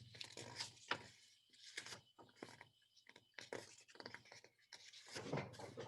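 Quiet room with faint, scattered small clicks and rustles of handling noise, a little louder near the end.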